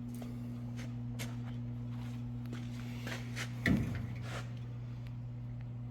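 Steady low hum, with scattered faint clicks and one brief knock about two-thirds of the way in.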